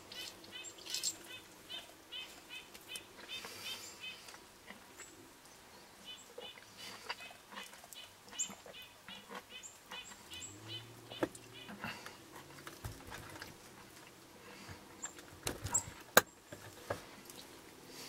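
Birds calling in runs of short, quick chirps, about four a second, with scattered high chirps. A few sharp knocks come near the end, the loudest about 16 seconds in.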